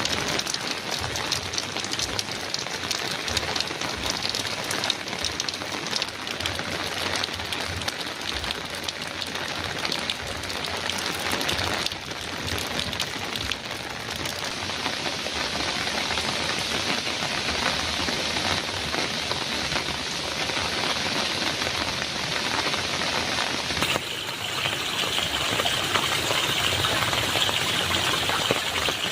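Heavy rain falling steadily on a metal roof, a dense hiss of many drops. About 24 seconds in, the sound abruptly turns brighter in tone.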